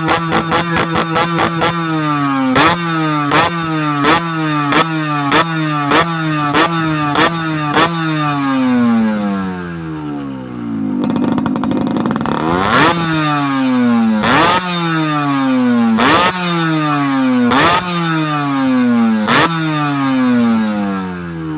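Yamaha RX two-stroke single-cylinder motorcycle engine being revved in repeated throttle blips, each a sharp jump in pitch that falls away. The blips come quickly at first, then slow to about one every second and a half in the second half.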